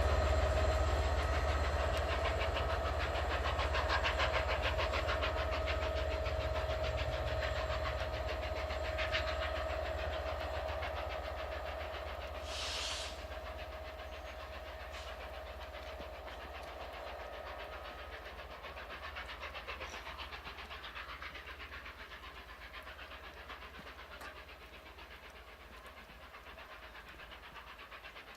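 Peppercorn A1 Pacific steam locomotive Tornado, a three-cylinder 4-6-2, pulling its train away and fading steadily into the distance. There is one short hiss about halfway through.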